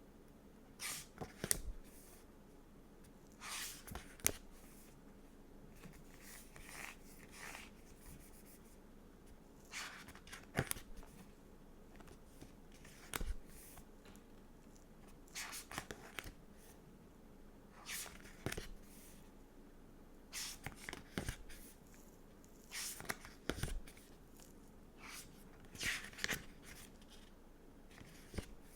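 Stickers and a sticker book being handled close to the microphone: short paper and plastic rustles and light taps, coming irregularly every second or two.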